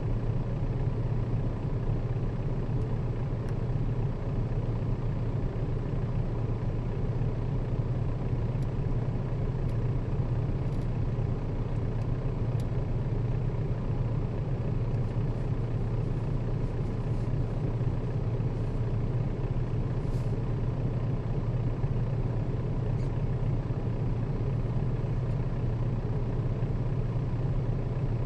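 Nissan Diesel KL-RA552RBN route bus running steadily, heard from inside the cabin: a constant low engine note with road noise, holding the same pitch throughout.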